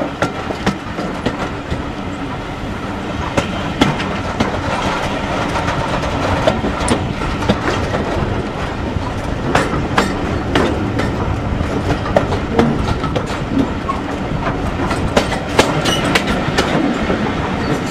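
Train coaches running on the track, a steady rumble of wheels on rail with many sharp clicks over the rail joints.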